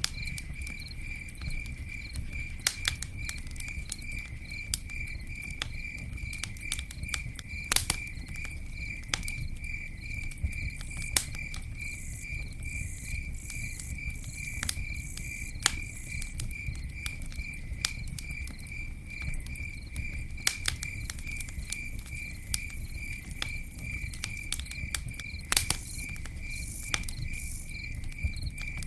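Campfire crackling with scattered sharp pops, the loudest about eight seconds in and near the end, over a low steady rumble. A cricket chirps steadily throughout, about two chirps a second.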